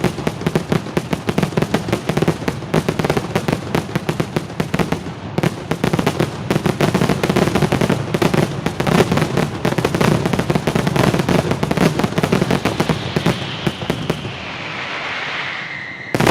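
Fireworks display: a dense, rapid barrage of crackling bangs, many per second, easing off near the end into a falling whistle before one loud bang.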